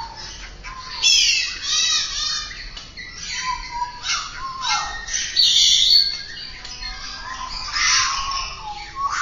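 Songbirds singing a rapid, varied song of repeated whistled phrases and chirps, with a louder harsh note about halfway through.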